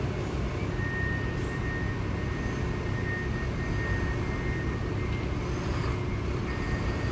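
Steady low rumble of outdoor background noise, with a faint thin high whine that fades in and out.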